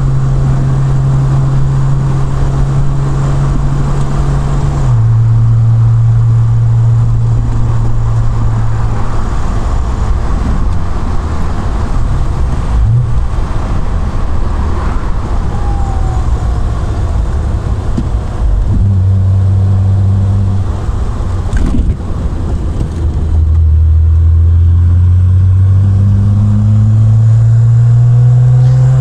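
Triumph Vitesse Mk2's two-litre straight-six engine running as the open car drives along, with wind and road noise. The engine note drops about five seconds in, shifts again a little before and after twenty seconds, and rises steadily near the end as the car accelerates.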